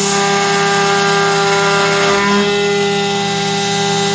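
Carvera Air desktop CNC mill's spindle whining steadily as the milling cutter cuts, over the hiss of the air-assist jet blowing chips clear. The tone shifts briefly about two seconds in.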